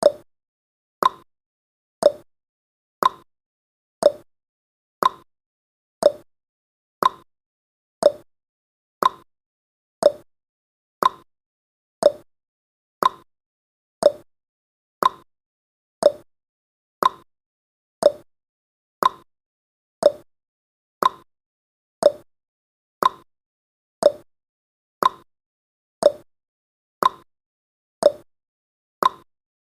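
Countdown timer's ticking sound effect: one short, sharp tick each second, dying away quickly, with silence between ticks.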